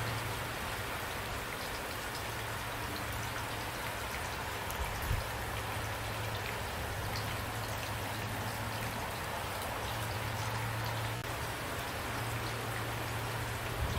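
Steady rain falling, with individual drops striking close by over an even hiss and a low steady hum underneath; a brief low thud about five seconds in.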